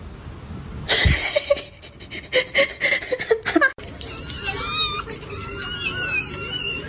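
A cat yowling in long, wavering calls through the second half, after a few seconds of loud, choppy noises that stop abruptly.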